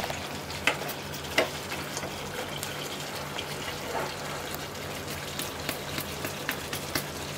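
Chicken and masala frying on a low flame in a pot, a steady sizzle, with scattered knocks and scrapes from a wooden spoon stirring against the pot.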